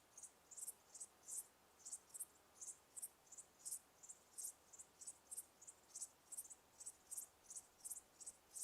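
Crickets chirping: short, high-pitched chirps repeating unevenly about three times a second, some coming in quick pairs, over a faint hiss.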